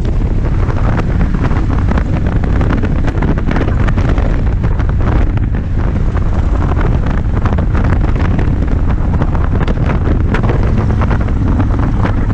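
Heavy wind buffeting on the microphone over a Suzuki Intruder 1400's V-twin engine running steadily at road speed.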